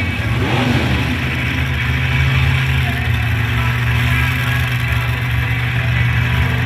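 Pulling truck's engine running loud and steady at high revs during its run at a truck pull, with a brief dip and rise in pitch near the start.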